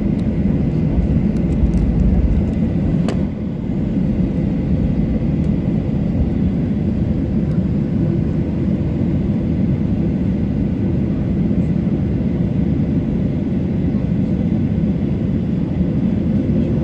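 Boeing 737-800 jet engines running with a steady low rumble, and one sharp click about three seconds in.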